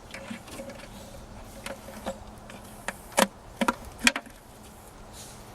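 A few sharp plastic clicks about three to four seconds in, as the bulb sockets are pushed and twisted out of the back of the taillight housing of a 2000 GMC Yukon.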